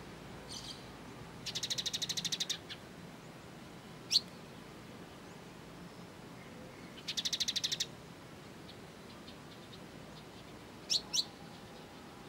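Fighting Eurasian tree sparrows: sharp single chirps and two fast rattling chatters of about a dozen notes a second, one about a second and a half in and one about seven seconds in, with a double chirp near the end.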